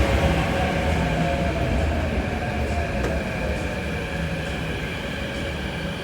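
MTR Kwun Tong Line C-Train, a CNR Changchun electric multiple unit, pulling in and slowing. Its traction-motor whine drifts down in pitch over the running rumble, and the sound eases off gradually.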